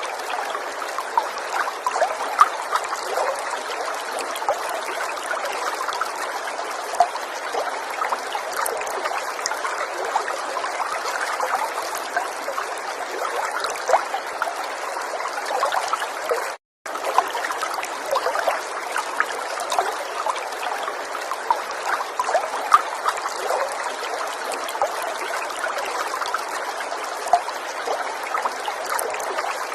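River water flowing in a steady trickle with many small splashes. The sound cuts out completely for a split second about two-thirds of the way through.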